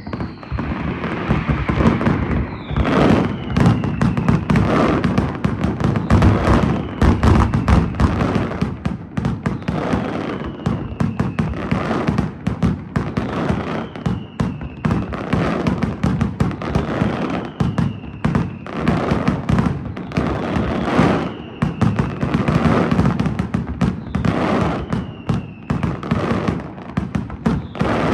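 Daytime fireworks display firing continuously: a dense run of sharp bangs and crackles, with a whistle falling in pitch every few seconds.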